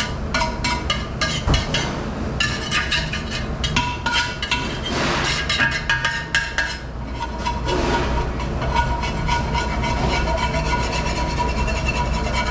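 Dishes and utensils clattering and clinking in a commercial kitchen, over a steady low machine rumble.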